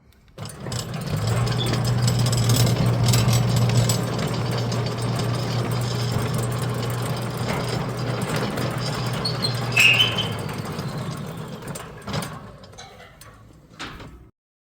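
Centurion D6 Smart sliding gate motor running and driving a steel sliding gate, a steady low hum with a rattling vibration from a loosely mounted motor. A short high squeak about ten seconds in, then the sound dies away as the gate stops just before the end.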